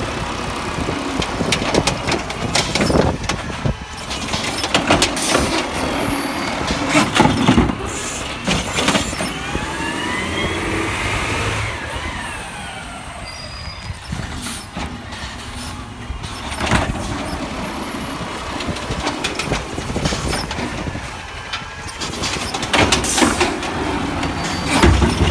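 Garbage truck running, with repeated clanks and knocks throughout. About ten seconds in, a whine rises and then falls.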